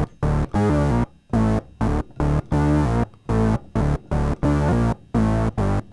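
Fender Rhodes electric piano played through an Electro-Harmonix Bass Mono Synth pedal with the dry signal off: a run of short synth bass notes, about ten, each starting and cutting off abruptly.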